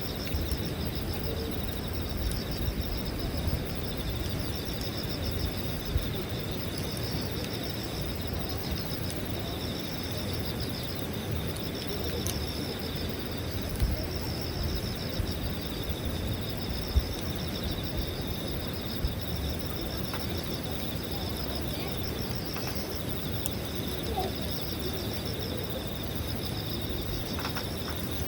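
Wood campfire crackling, with a few sharper pops, over a steady chorus of insects chirping in a fast pulsing rhythm.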